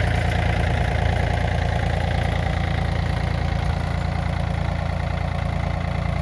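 Yanmar F215D compact tractor's three-cylinder diesel engine idling steadily, easing slightly in the first second.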